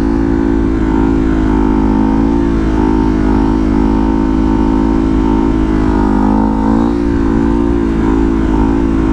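Ducati Hypermotard's L-twin engine running at a steady, moderate speed while riding, its pitch wavering only slightly. A low wind rumble sits underneath.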